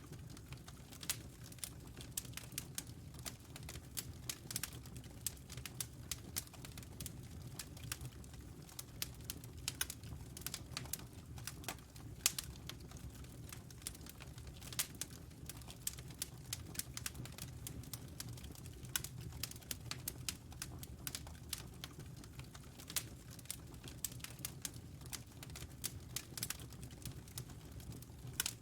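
Wood fire crackling in a fireplace: irregular sharp pops and snaps, many a second, over a steady low rumble.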